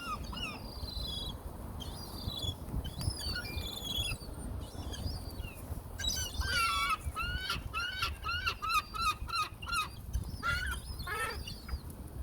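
Gulls calling over one another. About halfway through one bird gives a quick run of repeated calls, two or three a second, over a steady low rumble.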